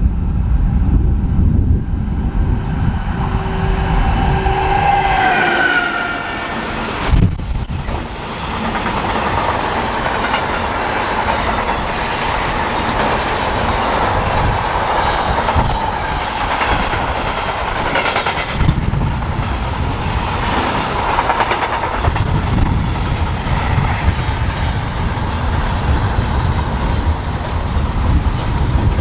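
Electric train passing on the main line: a whine that drops in pitch about five seconds in as the front goes by, then a long steady rush of wheels on rail. Wind buffets the microphone.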